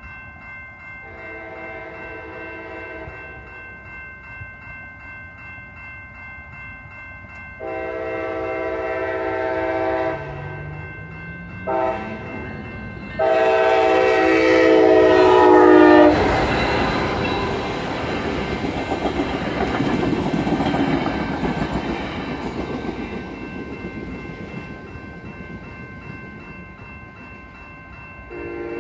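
Electronic railroad crossing bells ring steadily while a passenger train sounds its horn in the grade-crossing pattern: long, long, short, long, the last blast the loudest. The train then rushes through the crossing at speed with wheel clatter that fades away, and another train's horn starts up near the end.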